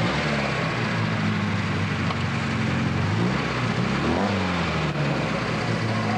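Lada rally car's engine running at idle, with its pitch dipping and then rising again about three to four seconds in, over steady tape hiss.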